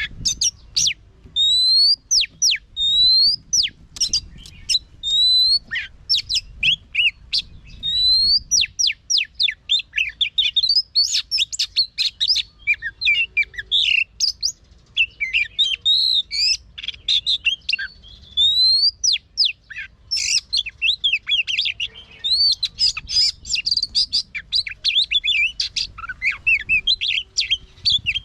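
White-rumped shama singing in its wild-type voice. It opens with spaced, repeated rising whistles, then from about nine seconds in breaks into a fast, dense run of varied whistled and chattering phrases. A faint low rumble lies underneath.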